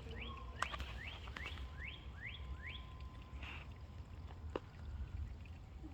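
A songbird singing a run of six or seven short rising whistled notes, about two and a half a second, over the first three seconds, above a steady low rumble.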